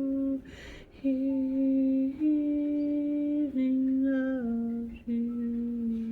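A woman humming a slow wordless melody in long held notes that step up and down in pitch, with a breath drawn about half a second in.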